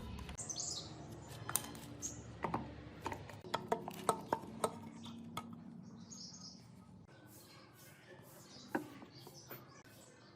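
Scattered sharp metallic clinks and taps of hand tools and small motorcycle parts being handled, a quick run of them in the first half and one more near the end.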